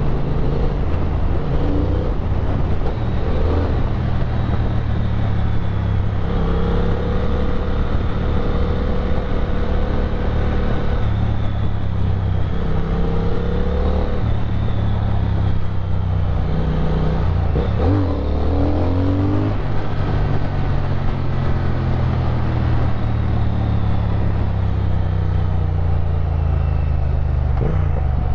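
The 1200 cc parallel-twin engine of a 2022 Triumph Speed Twin 1200 running steadily as the motorcycle is ridden, with wind and road hiss over it. The engine pitch shifts about eighteen seconds in and again near the end.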